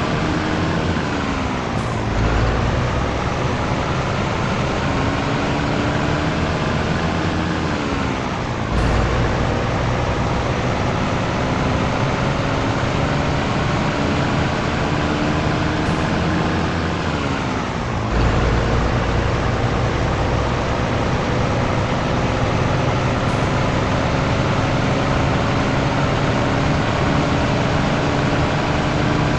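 Scania 113 truck's inline-six diesel pulling up through the gears. Engine pitch climbs steadily under load and drops sharply at each upshift: about 2 seconds in, about 9 seconds in and about 18 seconds in, then a long steady climb.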